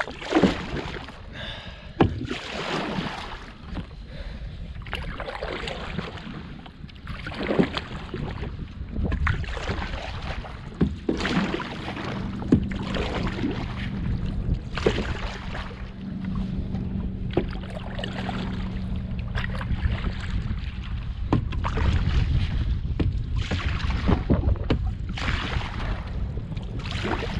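Canoe paddle strokes splashing through the water, one every second or two, over wind buffeting the microphone.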